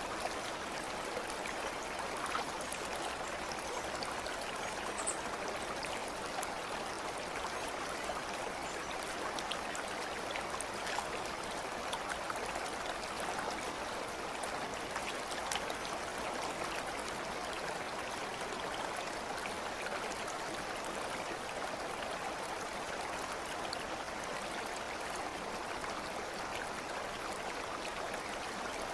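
Steady rush of running water, like a flowing stream, with faint scattered drips and ticks.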